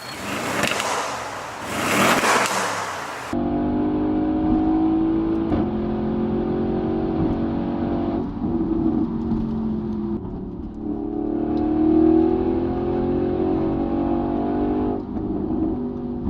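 Audi RS6's 4.0-litre twin-turbo V8 on its stock exhaust, opening with two loud surges. About three seconds in it switches suddenly to a steady engine note that rises and falls in pitch several times.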